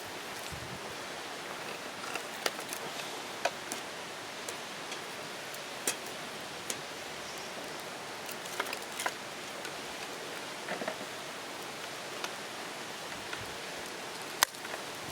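Wood fire crackling: a steady hiss with irregular sharp pops and snaps scattered through, the loudest pop near the end.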